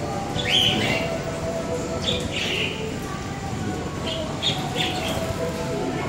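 Small caged birds chirping in short bursts, several times, over a steady background murmur.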